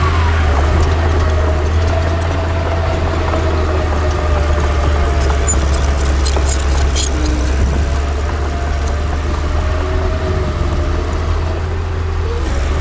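Heavy diesel earthmoving machinery running steadily with a deep, even rumble and a wavering mid-pitched whine, with a few light clicks and rattles near the middle.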